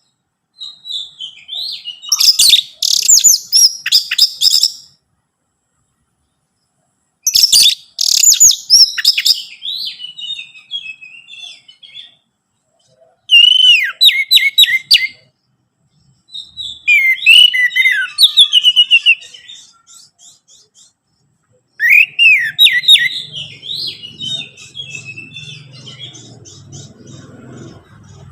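Orange-headed thrush song: loud phrases of rapid, varied whistled notes and trills, broken by short silent gaps.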